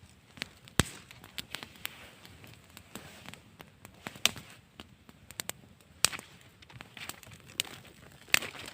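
Campfire crackling, with irregular sharp pops.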